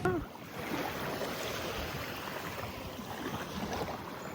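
Sea surf washing on the beach, a steady rushing hiss, with breeze on the microphone. A brief snatch of a voice comes at the very start.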